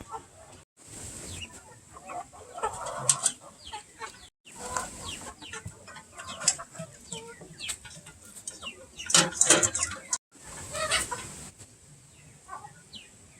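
A flock of chickens clucking and calling, with many short overlapping calls, broken by three brief silent gaps.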